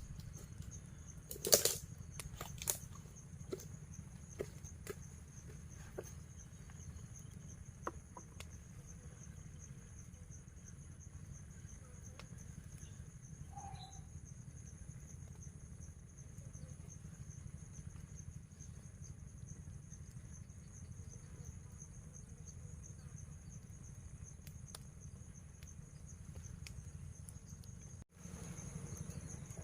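Steady high-pitched drone of insects, with a few sharp snaps and clicks in the first seconds, the first the loudest, and a faint brief call about halfway through.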